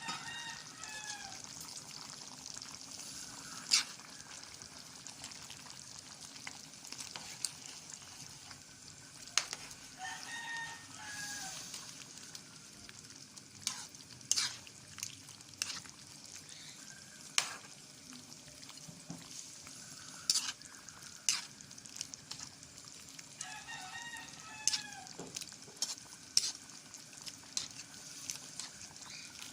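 Chicken and green peas sizzling in a pan, with sharp clicks and scrapes of a utensil against the pan as it is stirred. A rooster crows three times in the background.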